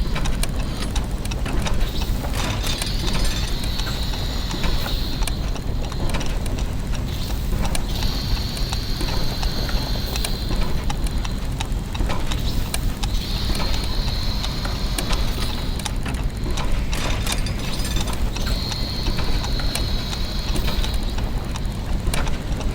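Layered clockwork and gear machinery sound effects: a steady low mechanical hum with scattered clicks and ratcheting. A high whir comes in for about two seconds at a time, roughly every five seconds.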